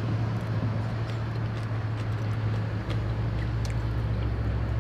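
Steady low hum with an even hiss, and a few faint clicks.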